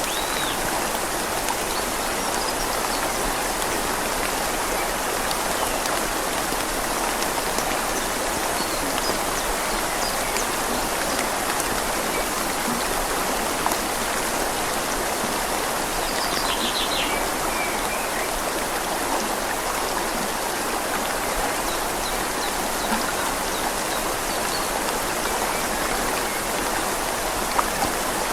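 Steady rain falling on leaves over the constant rush of a flowing river. A bird chirps faintly a few times, with one short quick trill about halfway through.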